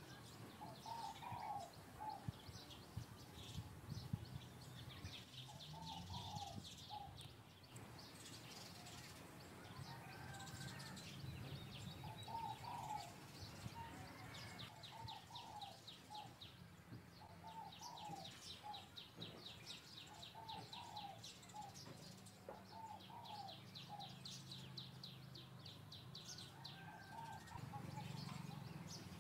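Faint bird calls: a short phrase of wavering notes repeated every couple of seconds, with stretches of rapid high trills, over a faint low hum.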